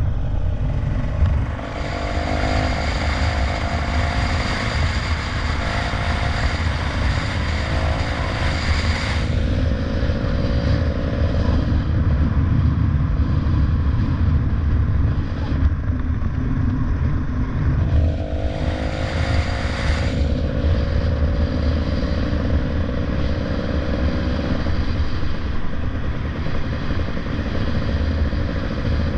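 Motorcycle riding along, its engine running under a heavy rumble of wind on the microphone; the engine note and a rushing hiss swell twice, for several seconds each.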